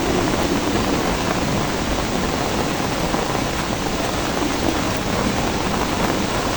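Steady rain falling, an even, unbroken hiss with no distinct thunderclap.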